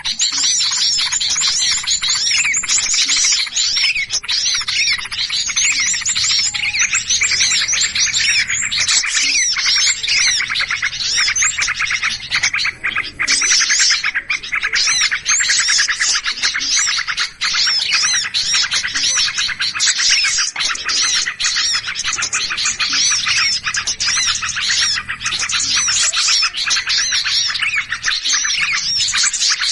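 Bird-trapping lure recording of many small birds calling in agitation: a dense, unbroken mass of rapid overlapping chirps and squeaky rising-and-falling notes.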